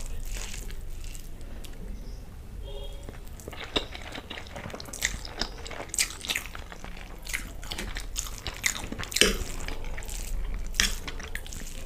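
Close-miked chewing of a mouthful of fried masala Maggi noodles: irregular wet mouth clicks scattered through, over a steady low hum.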